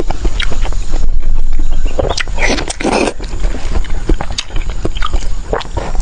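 Close-miked eating: loud wet chewing and biting with clicks of the mouth and teeth, and a few longer noisy bursts of chomping or slurping, over a steady low hum.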